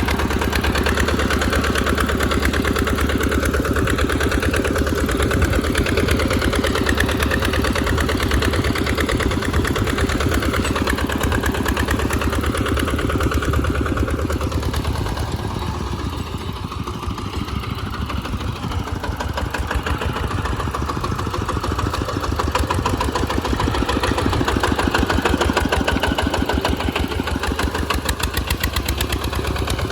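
Tractor engine running steadily while plowing in mud, easing off briefly about halfway through before picking up again.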